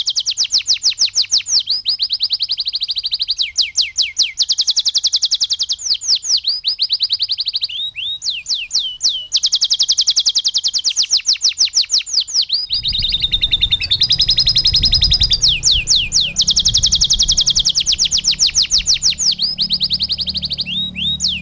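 Domestic canary singing long, fast trills of rapid downward-sweeping notes that change pattern every second or two, in a canary song filled in with lovebird-style phrases. A low background rumble comes in a little past halfway.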